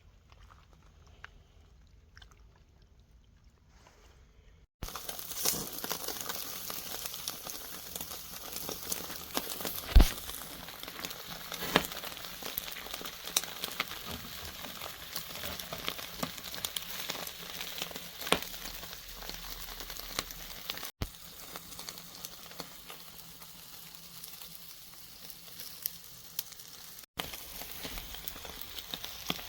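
Food frying in a pan: a steady sizzle full of crackles and sharp pops, starting abruptly about five seconds in after a stretch of faint hiss. The loudest pop comes about ten seconds in.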